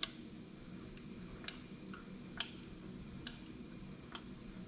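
Five single, sharp metallic clicks about a second apart: a ratchet wrench being worked slowly back and forth on a seized winch bolt to ease it loose.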